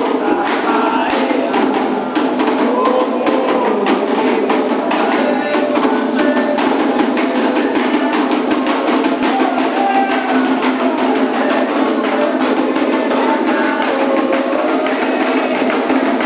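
Candomblé ritual music: atabaque drums and other percussion beating a fast, steady rhythm under group singing.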